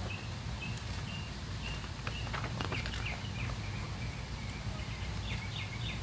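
Small birds chirping repeatedly in short high notes over a steady low background rumble, with a few soft rustles of paper as a picture-book page is turned.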